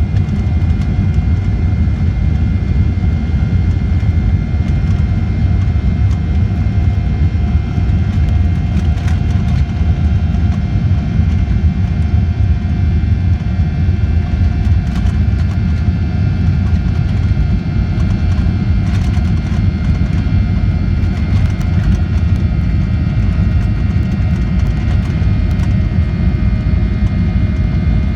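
Boeing 737-800 with its CFM56-7B jet engines running: a steady low rumble under a steady engine whine, with a few faint clicks or rattles.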